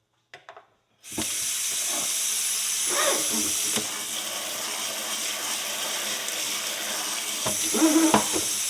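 Kitchen sink tap turned on about a second in, water running steadily into the sink, with a couple of brief clatters under the stream.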